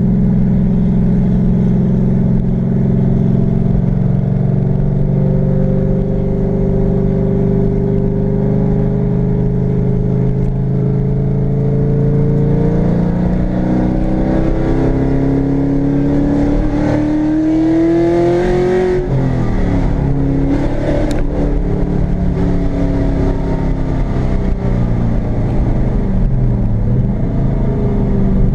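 LS1 V8 of a third-generation Pontiac Firebird Trans Am, heard from inside the cabin while driving. It runs steadily at first, then pulls with a rising pitch for several seconds under acceleration. The pitch drops sharply at an upshift about two-thirds of the way through, and the engine settles back to steady running.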